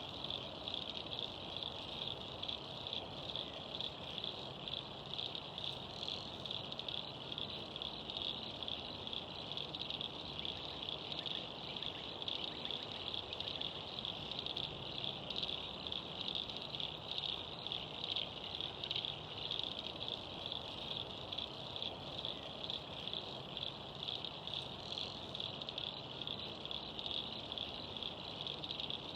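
Steady, high-pitched insect chorus, a dense pulsing trill that runs without a break.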